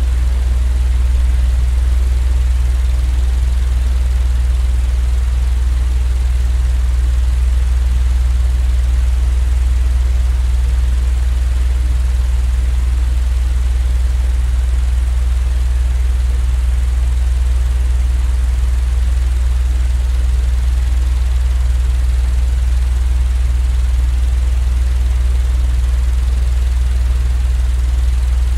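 Steady, unchanging low drone with an even hiss over it, a continuous white-noise sleep sound in the manner of a running fan or a train's rumble.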